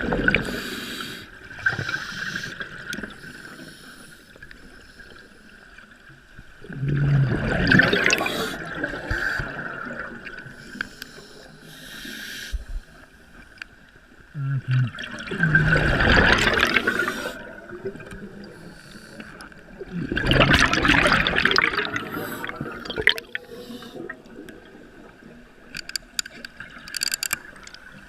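Water splashing and sloshing against a boat in repeated surges every few seconds, over a steady high hum.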